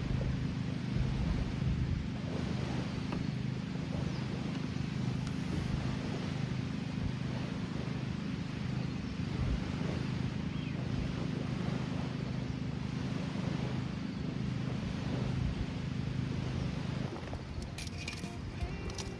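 A steady low hum under a light hiss, with a few faint scattered crackles. Near the end the hum drops away and music comes in.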